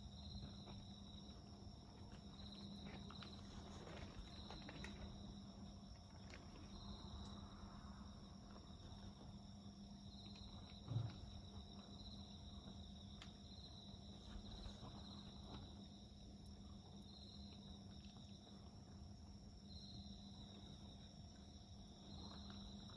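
Faint insects calling in short repeated chirps about every one and a half seconds over a quietly crackling wood fire, with one louder pop about eleven seconds in.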